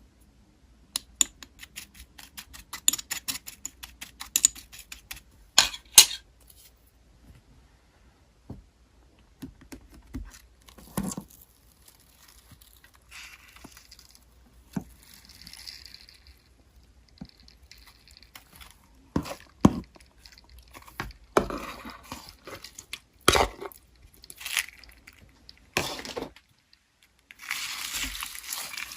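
Slime being squished and stretched by hand: a run of quick sticky clicks and crackles at the start, then scattered sharp pops and short squelching rustles.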